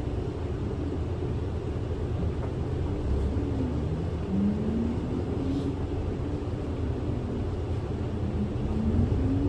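City bus interior on the move: steady engine and road rumble, with the engine note climbing in pitch twice, about four seconds in and again near the end, as the bus accelerates.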